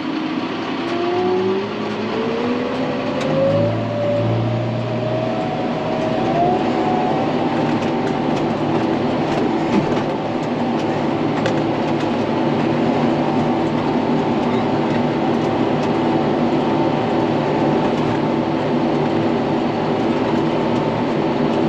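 Tractor engine speeding up over about six seconds, its pitch rising, then running steady under load while driving a New Holland Roll-Belt 450 round baler into a hay windrow.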